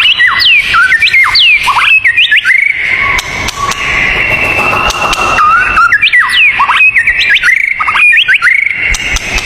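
Songbirds singing loud, fast whistled phrases of quick rising and falling sweeps. Near the middle comes a steady high tone lasting about two seconds over a light hiss, and then the quick whistles resume.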